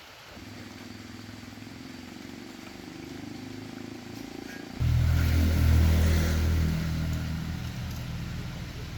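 A motor vehicle engine running, growing slowly louder, then jumping sharply louder about five seconds in and easing off again toward the end.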